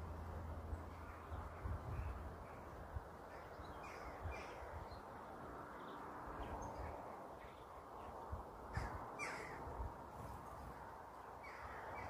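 Wild garden birds calling: scattered short chirps from small birds, then two louder calls close together about nine seconds in, over a steady low background hum.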